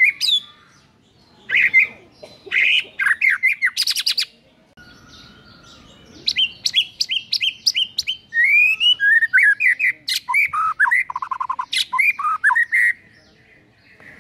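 White-rumped shama (murai batu) singing a varied song of quick whistled phrases and rapid trills, running through its repertoire of learned notes. There is a short pause a third of the way in, then a long unbroken run of notes that stops shortly before the end.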